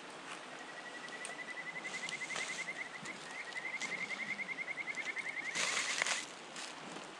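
An animal's trilling call: a fast run of short chirping notes, about ten a second, holding one pitch for several seconds with a brief break near the middle. Light clicks and rustling around it, and a short hiss near the end.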